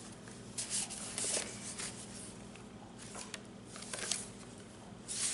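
Paper rustling and rubbing as the pages and envelopes of a handmade journal are handled and turned: several short scratchy scrapes with a couple of light taps.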